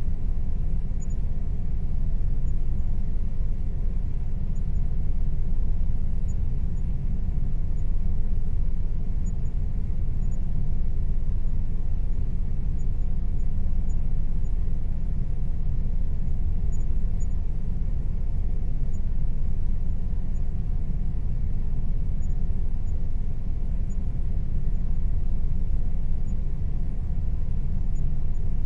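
Air conditioner running steadily: an even, low rumble with a faint steady hum above it.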